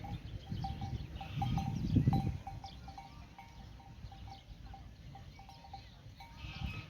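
Small bells on grazing livestock clinking irregularly. A low rumble swells and fades about two seconds in.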